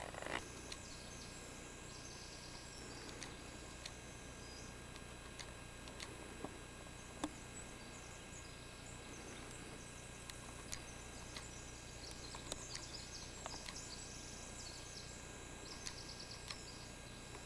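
Faint forest ambience: small birds chirping and twittering high-pitched in scattered bursts, over a steady low background hiss, with a few light clicks.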